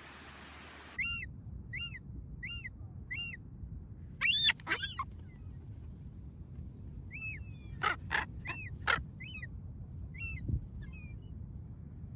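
Gull calling: a run of short, evenly spaced calls, then louder, longer calls about four seconds in and again around eight to nine seconds in, over a low rumble.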